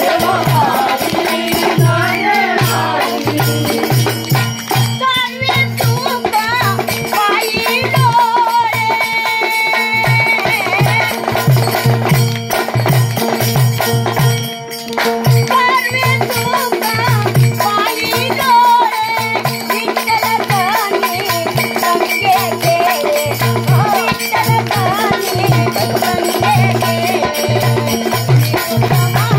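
Marathi folk song: a woman singing over the steady drone of an ektari, with an even low drum beat and rattling percussion. The voice breaks off briefly twice while the drone and beat carry on.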